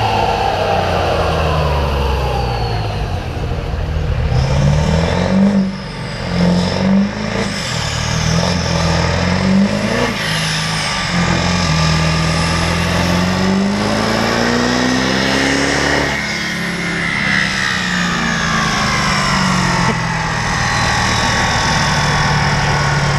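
Turbo diesel pickup engine running under load on a chassis dynamometer. The revs climb in several short steps, then in one long climb, and drop back about two-thirds of the way in to a lower, steady run.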